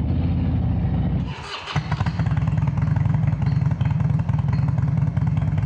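Harley-Davidson Road Glide's V-twin engine running on the road. The engine sound drops away briefly about a second and a half in, then comes back steady.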